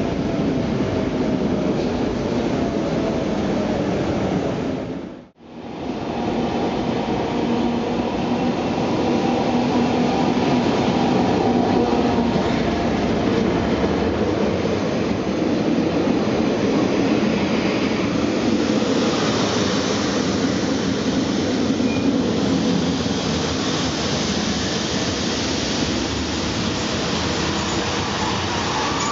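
Montreux-Oberland Bernois narrow-gauge electric train running along the track, a steady rumble of wheels and running gear with faint tonal whines. The sound cuts out briefly about five seconds in, then the running resumes.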